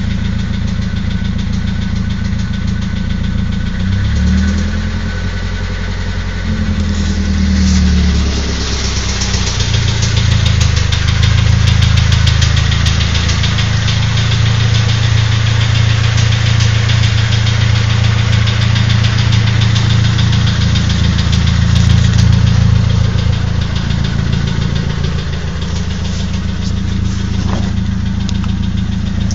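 Nissan SR20DET turbocharged inline-four engine idling, its speed shifting up and down a few times and running a little higher and louder through the middle. It carries the knocking/tapping noise the owner hears only at low idle, gone by 1250–1500 rpm, which he suspects comes from the VCT gear despite new rocker arms and lifters.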